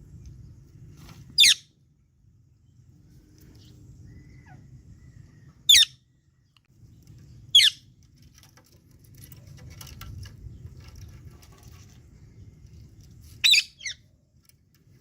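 Parrot giving four short, shrill calls a few seconds apart, each sweeping down in pitch, the last one doubled, over a faint low rumble.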